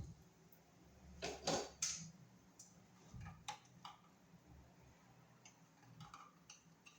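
Scattered light clicks and knocks of hand work on an electrical outlet box and its wiring, with a short louder run of scraping knocks about a second and a half in.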